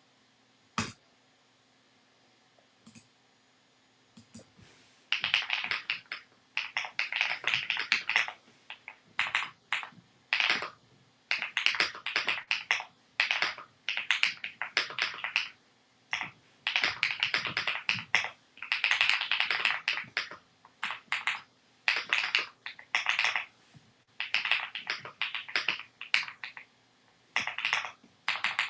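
Typing on a Rainy 75 mechanical keyboard: runs of quick keystrokes in bursts of one to two seconds with short pauses between, starting about five seconds in after a single click near the start.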